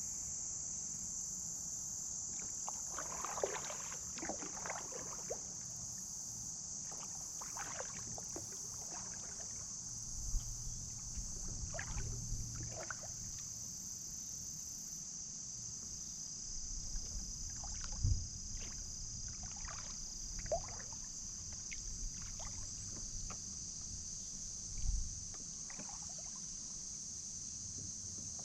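Kayak paddle dipping and splashing in irregular strokes, with water dripping off the blade and a few low thumps. Under it runs a steady high insect drone.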